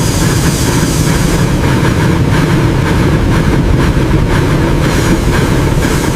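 A train running on rails: a loud steady rumble with a light clatter.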